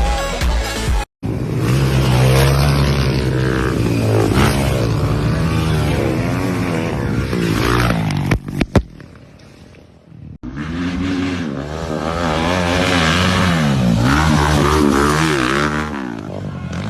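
Motocross dirt bike engines revving up and down, the pitch repeatedly rising and falling. There are a couple of sharp knocks about eight and a half seconds in, then a brief quieter lull before the engines rev again.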